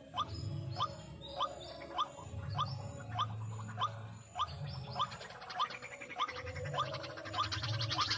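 White-breasted waterhen (ruak-ruak) calling: short upward-sweeping notes repeated steadily, about two a second. From about five seconds in, a raspy buzzing call builds up alongside.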